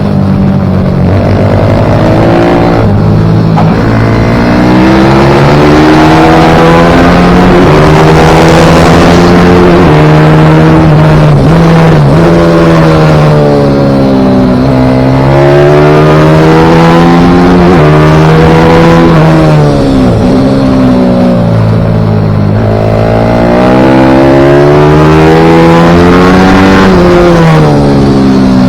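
Pit bike's single-cylinder engine revving hard at racing pace, its pitch repeatedly climbing and then falling away, with sharp drops as it comes off the throttle or shifts gear.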